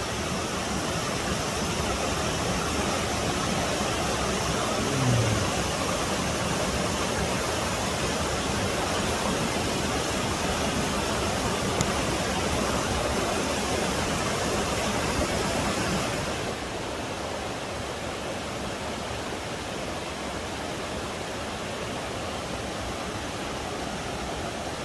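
A waterfall's rushing water, a steady hiss across all pitches. About two-thirds of the way in it turns a little quieter and duller, losing its highest hiss.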